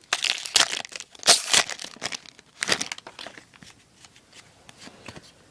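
Wrapper of a baseball card pack crinkling and tearing as it is opened: a run of sharp crackles, loudest in the first three seconds, then fainter rustling.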